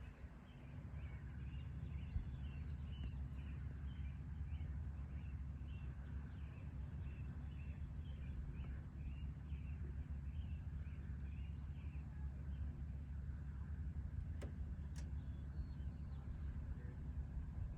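A steady low rumble, with short high chirps repeating about twice a second that stop about two-thirds of the way through. Two sharp clicks follow a little later.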